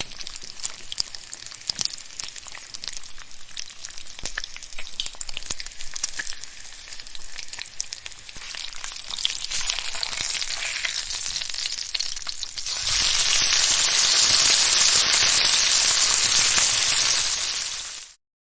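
Steady sizzling hiss dotted with many small crackling pops, jumping to a louder, steadier hiss about 13 seconds in and cutting off abruptly near the end.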